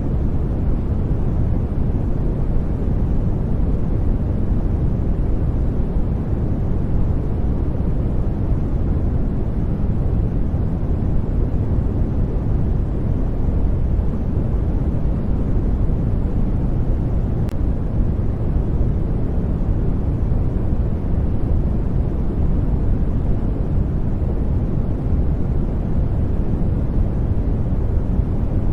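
Steady sleep-aid noise track, a constant deep rushing hiss weighted heavily toward the low end, unchanging throughout.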